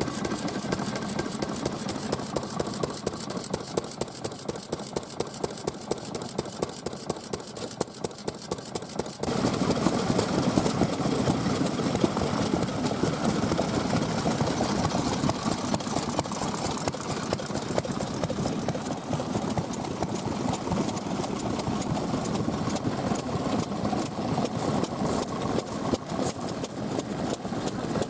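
Vintage stationary engines running steadily with rapid, even firing. About nine seconds in, the sound changes abruptly to a louder, fuller-sounding engine.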